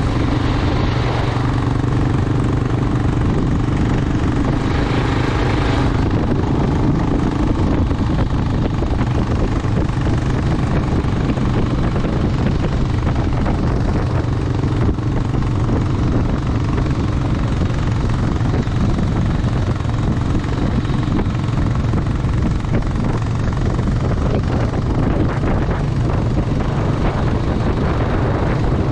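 Motorcycle engine running steadily at an even pitch, with no rise or fall in revs.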